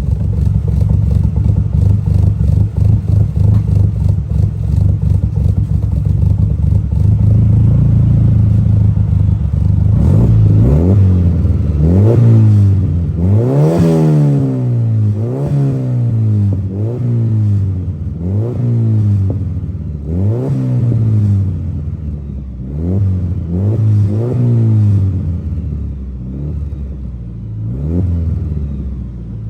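1988 Mitsubishi Starion's turbocharged G54B 2.6-litre four-cylinder, still cold, running through a freshly built 3-inch turbo-back exhaust. It idles steadily for about ten seconds, then is revved in a string of about a dozen quick throttle blips, the pitch rising and falling every second or two.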